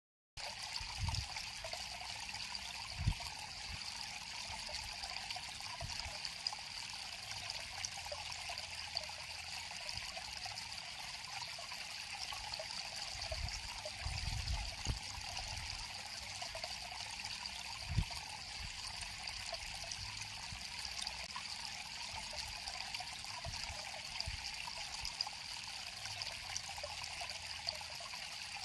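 River water flowing and trickling steadily. It starts abruptly just after the beginning, and a few brief low thumps come now and then.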